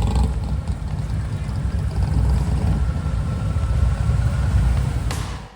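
Harley-Davidson motorcycle engines running with a deep, uneven low rumble, fading out near the end.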